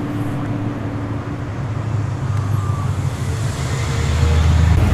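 Car engines and exhausts rumbling as cars drive slowly out past, the rumble growing louder about four seconds in as another car comes closer.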